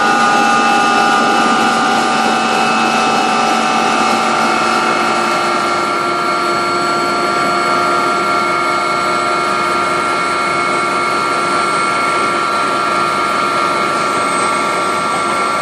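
Agusta helicopter's turbine engines and rotor running steadily and loudly, a whine of several steady tones over a rushing noise; the pitch of the lower tones shifts about four seconds in.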